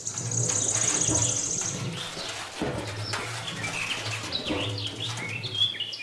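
Birds chirping and calling, with a fast high trill in the first second or two and short rising and falling chirps after it.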